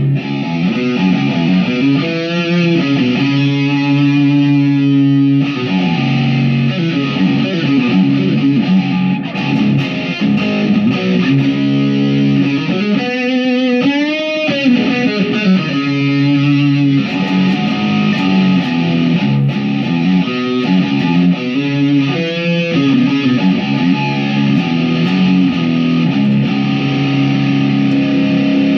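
Chapman SAR63 electric guitar, tuned to drop C-sharp, played through a Spark cab with a distorted, Friedman-style amp preset: heavy rock riffing with held chords and a few bent notes with vibrato.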